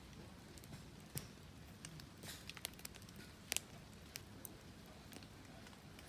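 Wood fire crackling, with irregular sharp pops over a faint low rumble, the loudest pop about three and a half seconds in.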